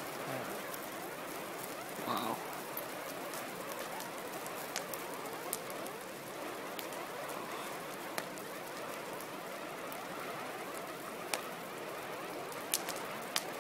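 A fire burning with a steady hiss and scattered sharp crackles and pops, and a short higher-pitched sound about two seconds in.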